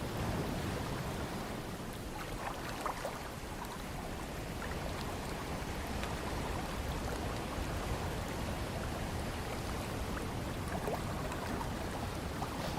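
Ocean water washing steadily, with small splashes and drips ticking through it.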